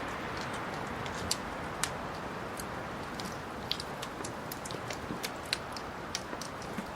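Wood fire crackling in a fireplace: irregular sharp pops and snaps over a steady soft rush of flame.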